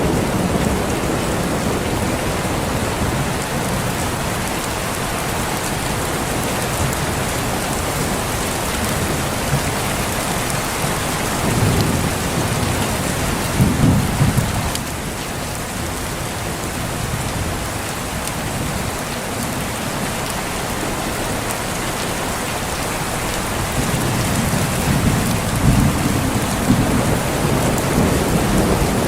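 Steady heavy rain with rolling thunder. The thunder rumbles low twice: once near the middle, and again in the last few seconds.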